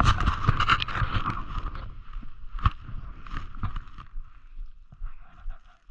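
Scraping, rumbling noise of a sled sliding down packed snow, loudest in the first two seconds, with a single thump nearly three seconds in, then fading.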